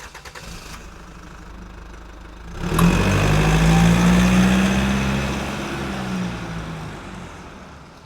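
Truck engine running quietly, then revving up loudly about two and a half seconds in and pulling away, its sound slowly fading out toward the end.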